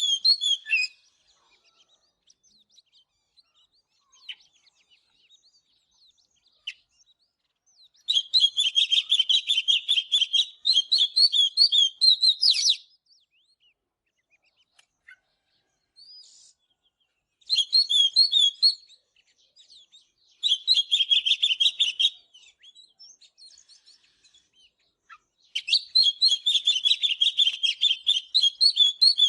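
Oriental magpie-robin singing in four bouts of fast, repeated high notes, each a few seconds long, with short pauses and a few faint stray notes between them.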